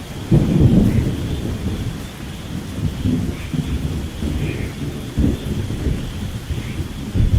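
Thunder in a rainstorm: a loud clap about a third of a second in, rolling into a long rumble with another sharp crack about five seconds in and a fresh surge near the end, over steady rain.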